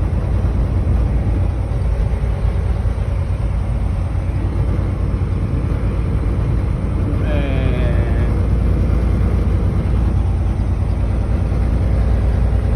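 Steady low rumble of engine and road noise inside a semi-truck's cab while driving. About seven seconds in, a brief sound falls in pitch.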